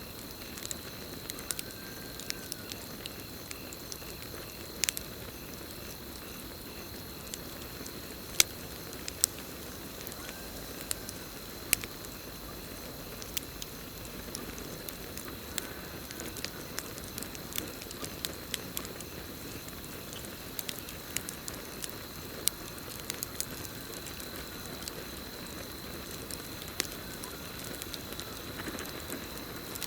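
Campfire burning: irregular sharp crackles and pops over a low steady hiss of flames. A steady high cricket trill runs behind it, and a few faint short calls come every several seconds.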